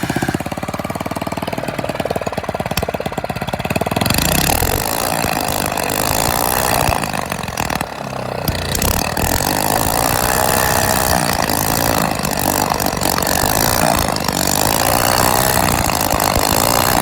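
An old engine, long unused, running with its exhaust pipe removed, so the raw exhaust pulses come straight out loud and harsh. It catches just at the start, and about four seconds in it picks up and gets louder, then runs on steadily.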